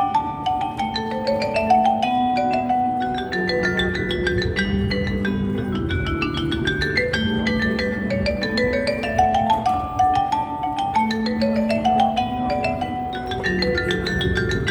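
Melodic mallet-percussion music: quick runs of ringing notes climbing and falling in a repeating pattern, a new cascade starting every few seconds.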